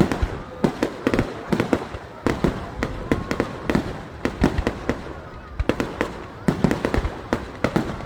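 Aerial fireworks going off in a rapid, irregular series of sharp bangs, several a second.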